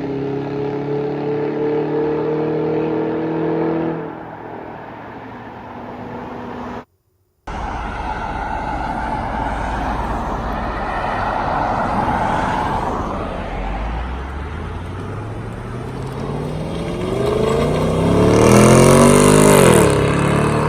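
V8 police car engine: first running steadily after easing off, then, after a brief dropout, accelerating hard with the engine note climbing for several seconds before dropping off near the end.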